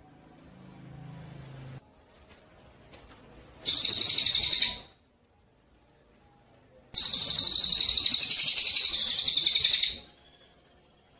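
Gereja cililin (tree sparrow) singing in two bursts of loud, high, rapid buzzing trill: a short one of about a second and, after a pause, a longer one of about three seconds. Faint thin whistles come in the gaps.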